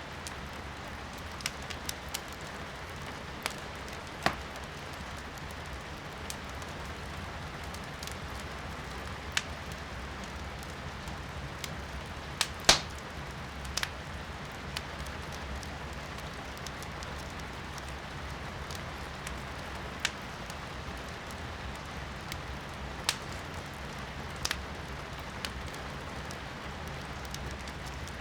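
Firewood burning in a fireplace, crackling with scattered sharp pops, the loudest about halfway through, over a steady hiss of rain heard from indoors.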